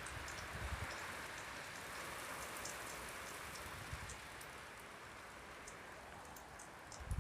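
Heavy rain falling steadily: an even hiss with scattered patter of drops and a few faint low thumps. A loud low rumble starts right at the end.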